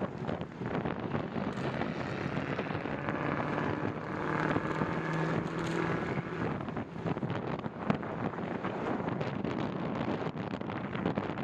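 Wind buffeting the microphone of a moving bicycle rider, a rough, fluttering rush, with a steadier hum swelling in the middle and fading again.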